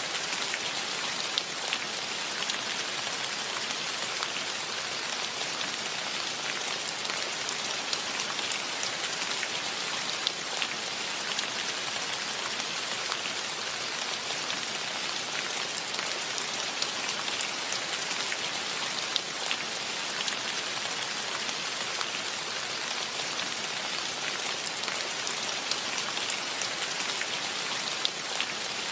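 Steady rain falling as an even hiss, with now and then a single louder drop ticking close by.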